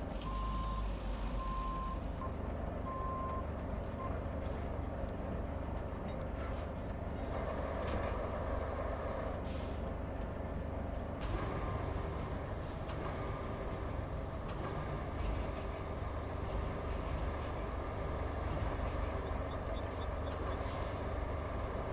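Heavy truck engine running steadily, with a reversing alarm beeping evenly for the first few seconds. About eleven seconds in, the engine note changes and a hiss joins it.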